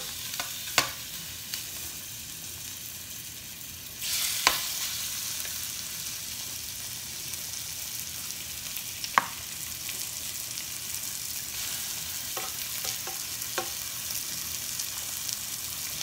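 Chicken thighs sizzling in hot olive oil in a skillet as they are laid in one by one with metal tongs, with sharp clicks of the tongs now and then. The sizzle gets louder about four seconds in as more pieces go into the pan.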